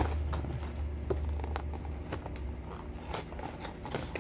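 Snack-cake packaging being opened and handled: scattered tearing, scraping and tapping of cardboard and wrapper, over a low hum that fades out about halfway through.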